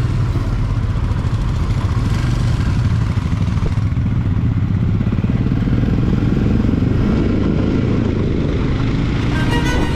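Royal Enfield Himalayan 411 cc single-cylinder motorcycle engine running steadily at road speed while riding. Music fades back in near the end.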